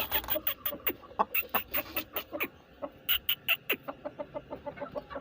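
Aseel chickens clucking in quick runs of short, sharp notes, several a second, in about three bursts, softer near the end.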